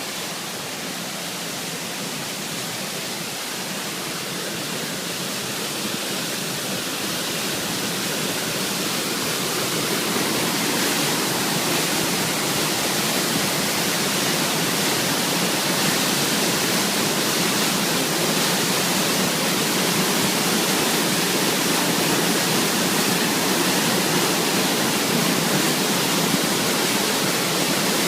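Waterfall swollen with muddy floodwater after heavy typhoon rain, pouring in a steady rushing torrent. It grows louder over the first ten seconds or so, then holds steady.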